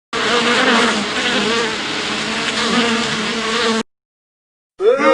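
A swarm of insects buzzing, as bees or flies do, with a steady, slightly wavering drone for just under four seconds that cuts off suddenly.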